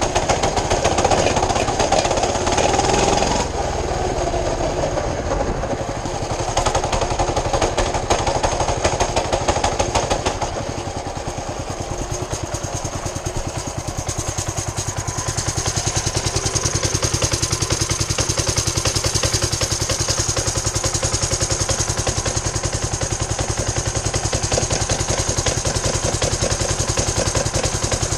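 Mini bike's small engine running, revved higher at the start and again a few seconds later, then settling to a steady idle for the rest of the time.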